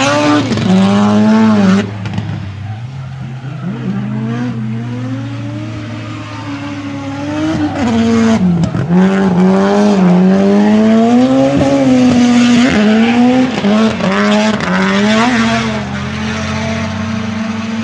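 Drift car engine at high revs, the pitch repeatedly climbing and dropping back as the throttle is worked through a drift, with sharp falls in pitch about two seconds in and again near nine seconds; tyre squeal mixed in.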